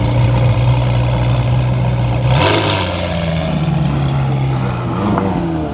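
Car engines running in a slow-moving queue. About halfway through, a brief loud blast like an engine being revved cuts in, and near the end an engine's pitch falls away.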